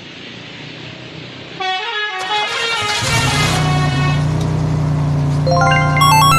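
Telolet bus horn, a multi-tone horn playing short tunes of quick stepped notes. From about three seconds in, a deep steady drone runs under the tunes, with street noise throughout.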